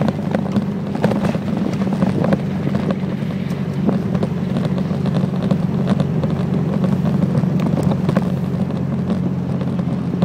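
Classic car engine running steadily at cruising speed, heard from inside the car, with road noise and scattered small ticks.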